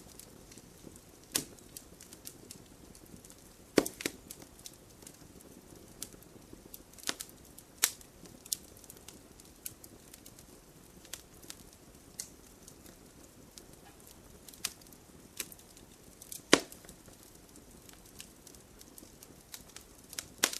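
Wood campfire crackling: irregular sharp pops and snaps of burning wood over a soft, steady hiss of the flames. The loudest pops come about four seconds in and again about three quarters of the way through.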